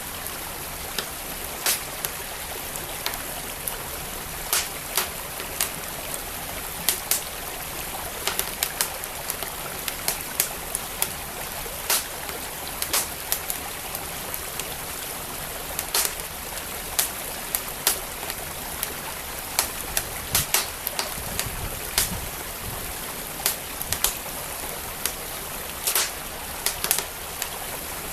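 Wood fire crackling with frequent, irregular sharp pops, over the steady rush of a flowing stream.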